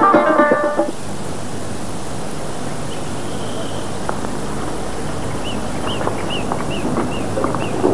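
Folk theme music with tabla cuts off about a second in, leaving a steady hiss. From about five seconds a bird chirps again and again in short, quick rising-and-falling chirps, with a few faint knocks.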